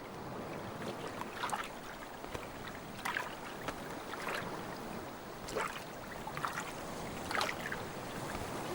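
Sea water lapping and sloshing at the surface, with short splashy patters every second or so from storm petrels dabbling their feet on the water.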